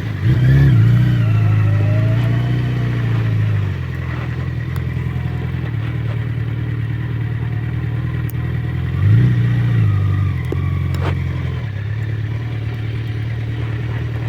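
Motorcycle engine idling steadily, revved up briefly near the start and again about nine seconds in.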